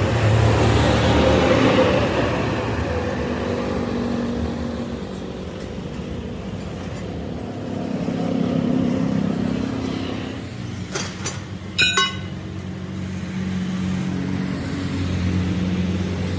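A large engine running, its sound swelling and easing several times, with a few sharp metallic clinks about eleven seconds in and one ringing metal strike just after.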